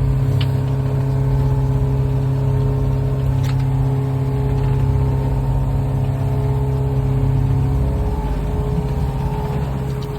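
Yacht's inboard engine running at a steady speed, a constant low drone, with a single sharp knock about three and a half seconds in.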